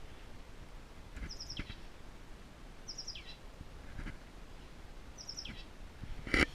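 A bird calling again and again, each call a short high note followed by a falling slur, roughly every second and a half to two seconds. A single sharp clack sounds near the end.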